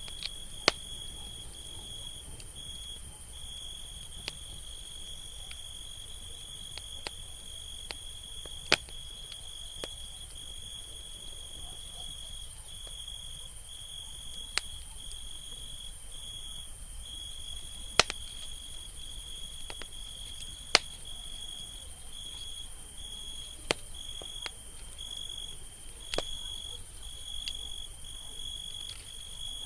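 Campfire crackling, with sharp pops every few seconds, over a steady high-pitched insect trill that breaks off briefly now and then.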